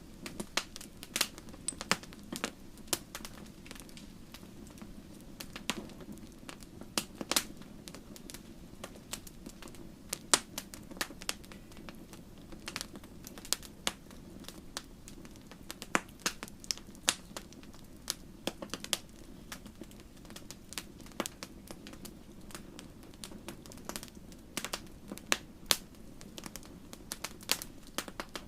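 Wood fire crackling in a fireplace: irregular sharp pops and snaps over a steady low rushing of the flames.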